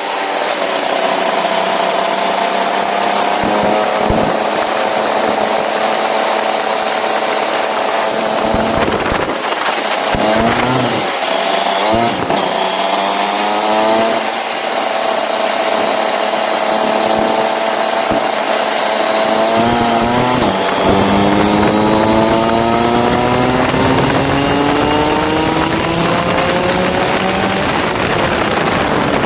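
Go-kart engine running hard, its pitch climbing in long steady rises. The rises are broken by a few quick drops and recoveries about ten seconds in, and by a sharp drop near twenty seconds, before it climbs again.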